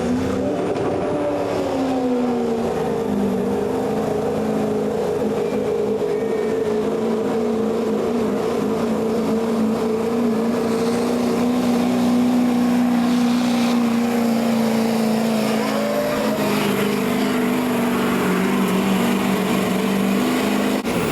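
Competition pulling vehicle's engine running hard at high, steady revs under load. Its pitch eases down in the first few seconds, holds, and settles lower again about three-quarters of the way through.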